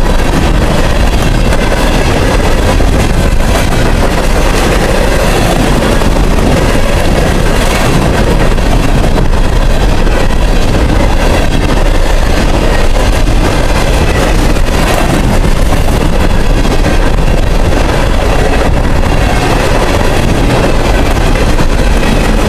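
Empty coal cars of a long freight train rolling past close by: a loud, steady noise of steel wheels running on the rails.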